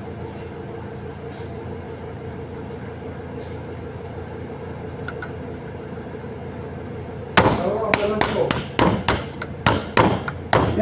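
Steady machine hum with a few held tones. From about seven seconds in, a hammer strikes metal in a quick, irregular run of sharp blows, some ringing briefly, as in knocking a fan motor's bearings into place.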